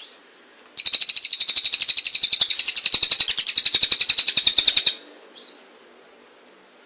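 Songbird singing a long, loud rapid trill, a 'roll tembak' rolling phrase of about a dozen evenly repeated high notes a second that lasts about four seconds and stops abruptly, after a few short chirps.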